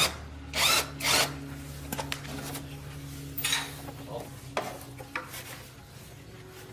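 Rasping scrapes, like a file or brush worked by hand: a few quick strokes in the first second and a half and another about three and a half seconds in, over a low steady hum.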